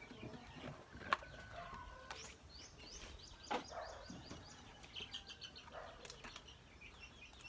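Birds chirping in short runs of quick high notes, with a few sharp clicks in between.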